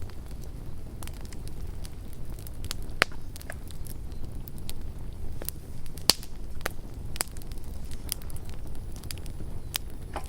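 Campfire burning with a steady low rumble and irregular sharp crackles and pops, the loudest pops about three and six seconds in.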